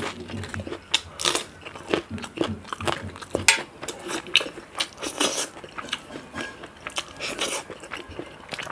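Close-up crunchy biting and chewing of crisp food by a mouth near the microphone: loud, irregular crackling crunches, several a second.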